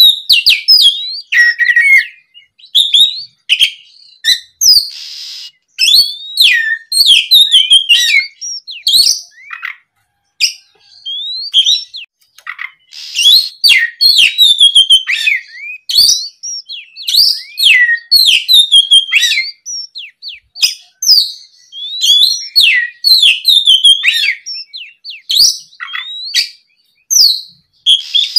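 Oriental magpie-robin (kacer) in full song: a rapid, varied stream of loud whistles, trills and sweeping notes, broken by short pauses, with a harsh buzzy passage about five seconds in and again near thirteen seconds.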